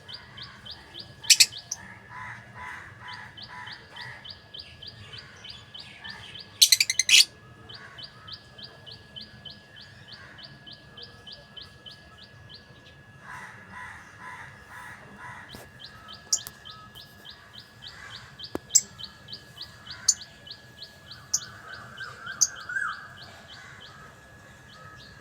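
Pet lovebirds chirping: long runs of rapid, even, high chirps at about five a second, broken by a few loud, sharp shrieks (about a second in and around seven seconds) and bouts of softer chattering.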